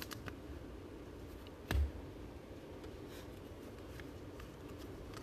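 Trading cards being handled and flipped through, with light ticks and one louder tap a little under two seconds in, over a low steady room hum.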